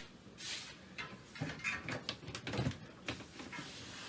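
Irregular knocks, clunks and rattles of tools and gear being handled and set down, busiest around the middle.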